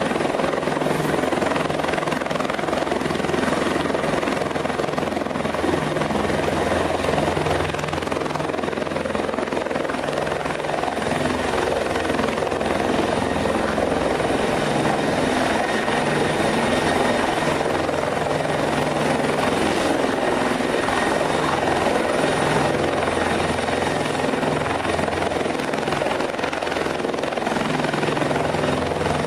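Rescue helicopter running loudly close by, a steady wash of rotor and engine noise with a low hum underneath.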